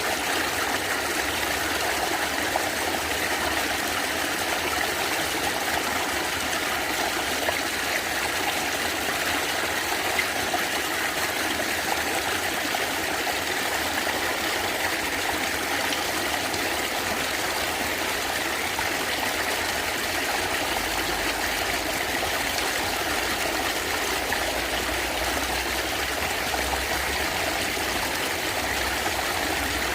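A stream running and gurgling over stones, a steady, even rush of water.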